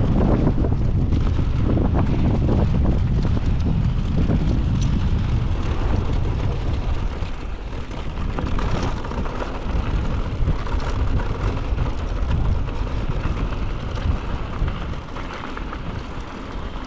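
Wind rushing over the camera microphone while a mountain bike rolls fast down a dirt trail, with scattered knocks and rattles from the bike over bumps.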